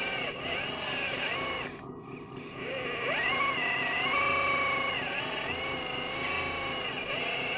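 Electric motor whine from a radio-controlled construction model, several pitched tones sagging and rising as the load changes. It cuts out about two seconds in, then spins back up with a rising whine.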